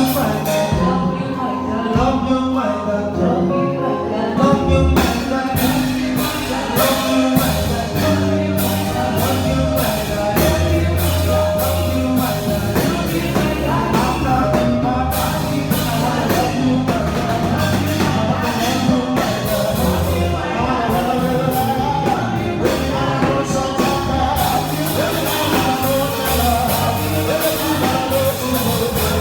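Live gospel band music with a singer: drum kit keeping a steady beat under bass, keyboard and guitar.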